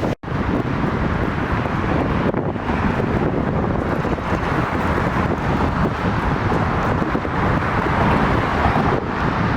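Strong wind buffeting the microphone: a loud, gusty rush with a heavy low rumble. It cuts out for a split second just after the start.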